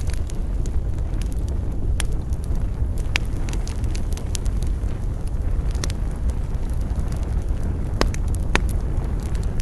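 Wood campfire burning, with sharp crackles and pops every second or two over a steady low rumble.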